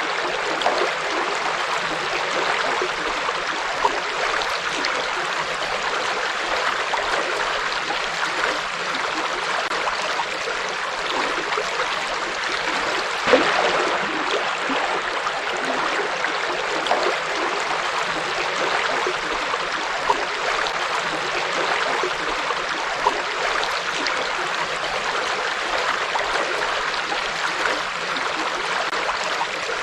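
Shallow river flowing over stones in a steady rush, with small splashes and gurgles standing out now and then, one a little louder about thirteen seconds in.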